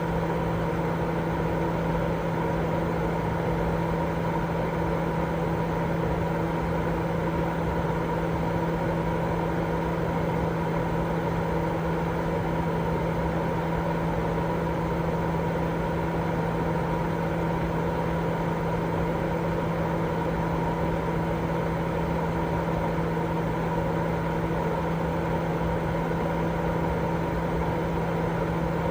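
Continuous white noise for baby sleep: an unchanging rushing hiss, weighted toward the lower pitches, with a steady low hum and a fainter higher tone running through it.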